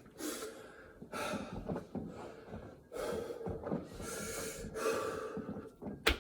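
Heavy, gasping breaths of a man exhausted mid-way through a set of burpees: several long hard breaths, about a second each, with a sharp click near the end.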